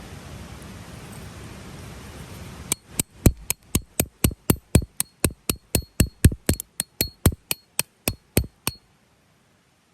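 A hammer striking a metal tent stake: a quick run of about two dozen ringing blows, about four a second, starting about three seconds in and stopping sharply near the end.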